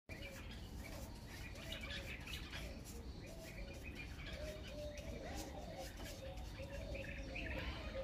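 Bulbuls chirping, faint, with many short chirps following one another. Under them a lower wavering call runs on.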